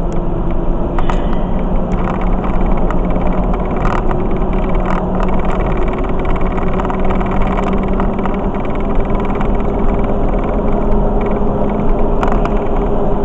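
Steady engine hum and road noise of a car on the highway, heard from inside the moving vehicle.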